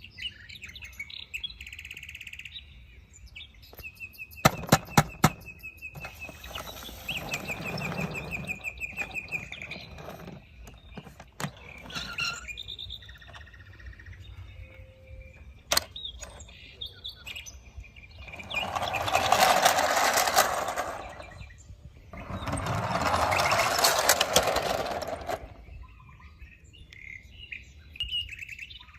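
Birds chirping in short trills, with a quick run of sharp clicks about five seconds in and two loud rushing swells of noise, each about three seconds long, in the second half.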